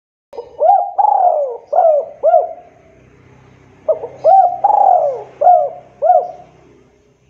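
Spotted dove cooing: two phrases of about five coos each, the second starting about three and a half seconds after the first.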